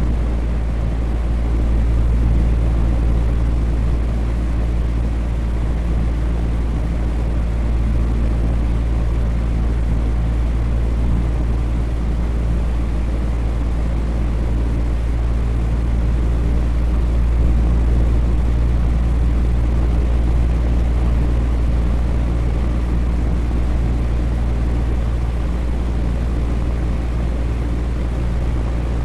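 Electric fan running steadily: a continuous low hum with a fainter whoosh of moving air.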